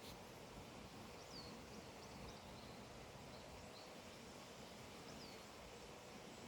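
Faint high bird chirps, short downward-sweeping notes scattered every second or so, over a quiet steady hiss.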